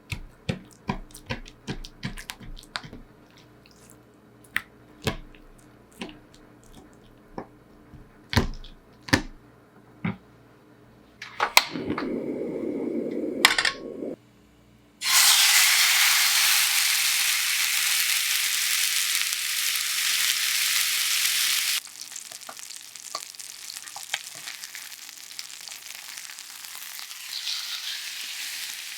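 A run of sharp taps and clicks, then a short low rushing noise, then chicken thigh meeting a dry, hot frying pan and sizzling loudly about halfway through. About seven seconds later the sizzle drops to a steadier, quieter frying sizzle.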